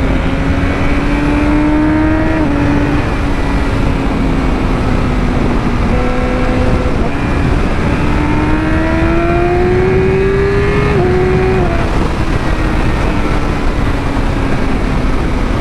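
Yamaha R6 sportbike's inline-four engine pulling at road speed, its note climbing slowly under throttle and dropping sharply at upshifts about two and a half and eleven seconds in, then easing back. Steady wind rush over the helmet-mounted mic.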